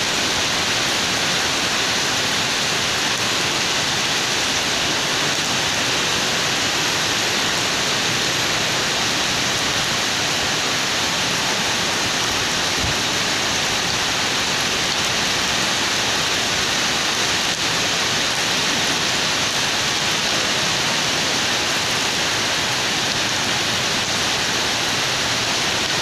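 Heavy rain pouring down steadily: a constant, unbroken hiss.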